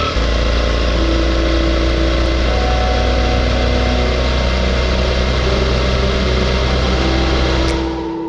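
Suzuki V-Strom 650's V-twin engine running steadily on the road, under a constant rush of wind and road noise.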